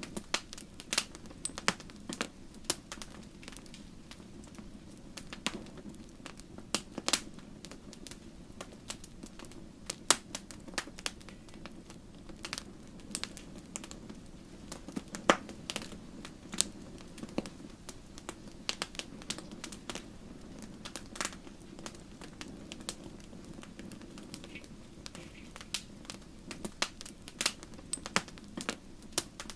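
Wood fire crackling in a fireplace: irregular sharp pops and snaps from the burning logs over a steady low rush of flame.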